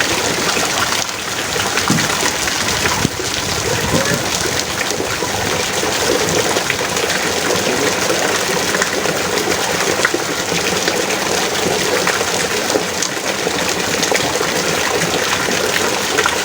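Heavy rain pouring steadily: a dense, even hiss of countless drops with fine crackling splashes.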